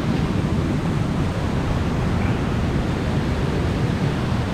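Waterfall pouring into its pool: a steady rush of falling water.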